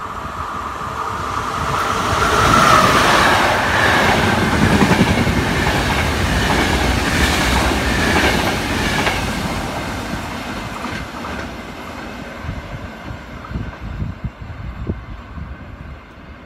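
An electric locomotive-hauled passenger train running through the station at speed: the noise builds as the locomotive arrives and passes, and the coaches rush by with wheels clattering over the rails. It fades over the last several seconds as the train draws away, with a few last clacks.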